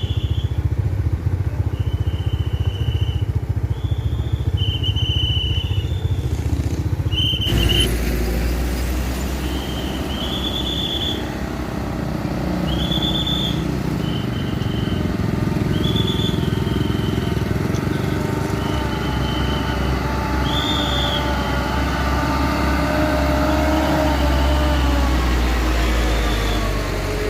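Railroad crossing warning bell ringing in short high tones about once every second and a half, alternating between two close pitches, over the steady running of vehicle engines waiting at the crossing.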